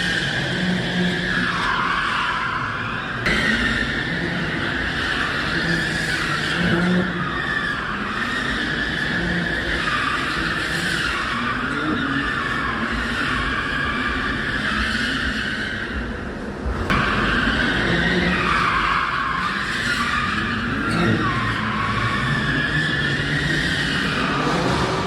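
Car tyres squealing continuously during a drift, the screech wavering up and down in pitch, with the engine revving underneath. The sound jumps abruptly about 3 and 17 seconds in, where the footage is cut.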